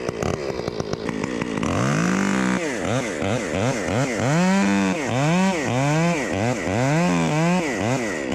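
Chainsaw, already warm and just pull-started, running at a steady low speed for a second or two, then revved up and down over and over in quick blips.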